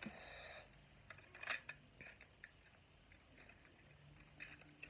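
Faint, scattered clicks and taps of plastic Lego pieces being handled, with a couple of sharper clicks about one and a half seconds in and again near the end.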